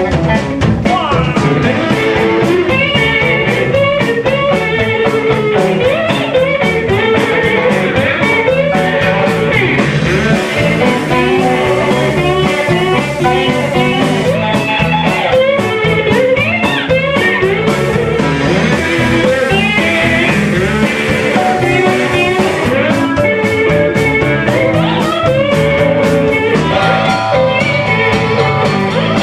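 A live band playing a blues-rock number, with guitar to the fore over a steady beat.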